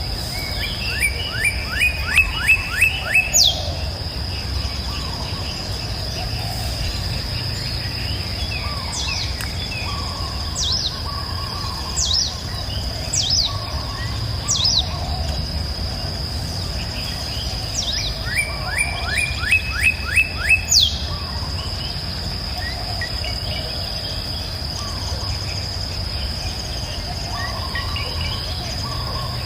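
Wild songbirds singing: one bird gives a quick run of about seven falling notes twice, near the start and about two-thirds through, with short high chirps from other birds in between. Underneath runs a steady high-pitched insect drone and a low, even background rush.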